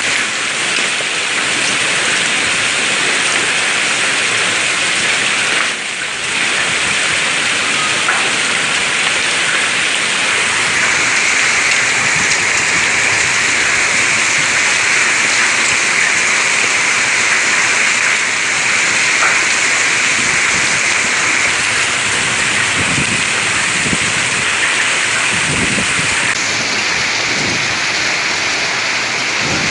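Heavy rain pouring steadily, a dense hiss, with low rumbles in the second half.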